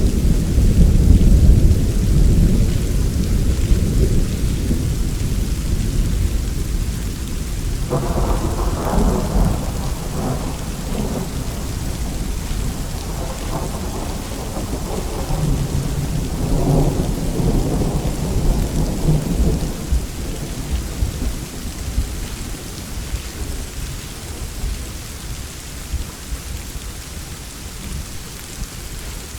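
Steady rain with rolling thunder: a heavy low rumble at the start dies away, a second crackling peal comes in the middle, and the thunder has faded to leave mostly rain near the end.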